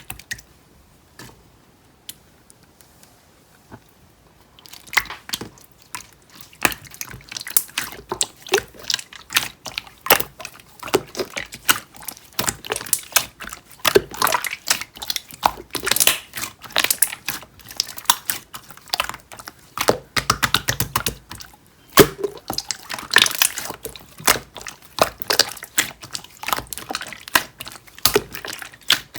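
Clear slime being squished and pressed by hand, making dense, irregular sticky clicks and little pops. After a few nearly quiet seconds with only a couple of clicks, the sound starts about five seconds in.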